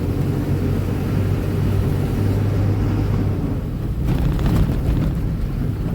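Ashok Leyland Ecomet 1214 truck's diesel engine running steadily on the move, a low drone under road and tyre noise, with a louder rush of noise about four seconds in.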